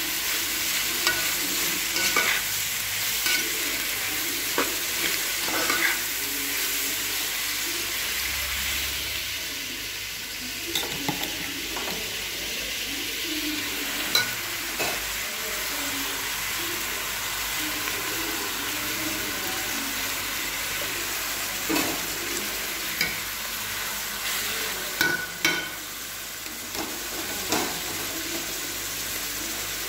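Onions and tomatoes sizzling in hot oil in a metal pot, with a slotted metal spatula scraping and clicking against the pot as they are stirred.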